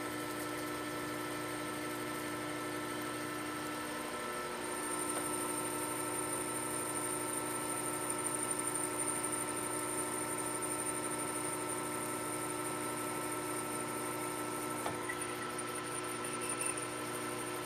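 Metal lathe running under a heavy cut on a thin-walled part: a steady machine hum with a high whine that grows a little louder about four and a half seconds in. The cut runs without chatter or ringing, the part damped by vinyl tape wrapped around it.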